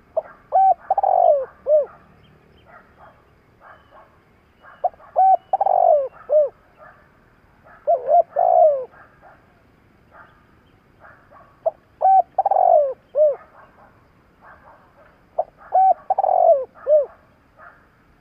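Spotted dove cooing: five phrases of a few low, hollow coo notes, repeated about every three to four seconds. Faint chirps of small birds sound in between.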